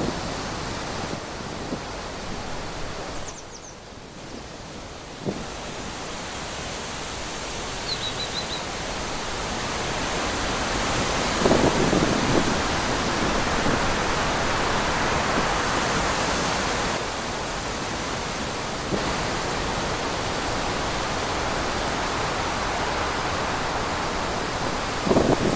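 Wind blowing through trees, a steady rushing that dips briefly early on and swells again, with a couple of low gusts.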